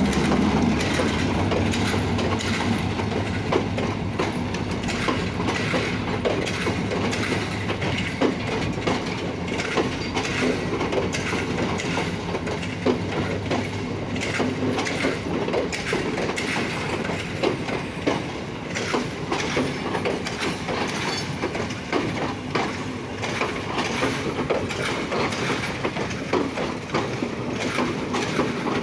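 Sri Lanka Railways M2-class (EMD G12) diesel-electric locomotive passing close by, its engine drone fading over the first half as it moves away. The passenger coaches it hauls then roll past with a steady run of wheel clicks over rail joints.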